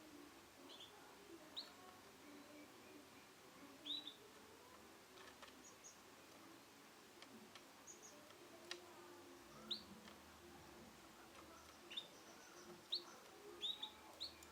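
Male canary giving short, scattered chirps rather than a continuous song, faint, with the chirps coming more often toward the end.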